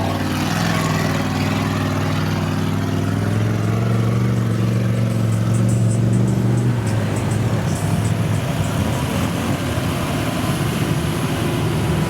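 Mud-bogging vehicle's engine held at high revs, a steady drone for about seven seconds that then turns rougher and noisier.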